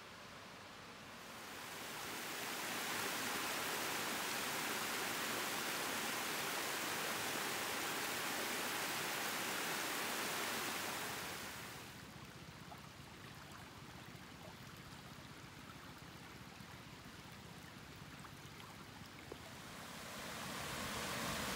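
Mountain stream rushing over rocks, a steady hiss of water. It swells loud about a second in, falls back to a quieter flow after about ten seconds, and grows loud again near the end.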